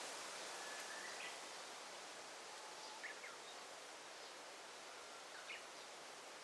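Forest ambience: a steady soft hiss of rustling leaves or distant running water, with a few faint short bird chirps and thin whistles about a second in, around three seconds in and again near five and a half seconds.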